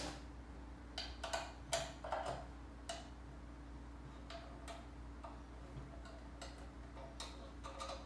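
Scattered light metal clicks and taps of Allen screws being fitted and turned with an Allen key, over a faint steady hum.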